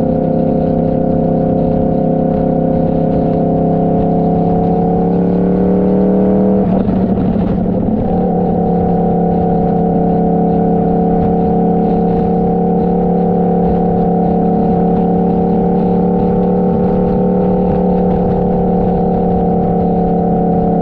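Motorcycle engine running at road speed: the revs climb for a few seconds, there is a gear change about seven seconds in, and then it settles into a steady cruise, with wind rumble on the microphone underneath.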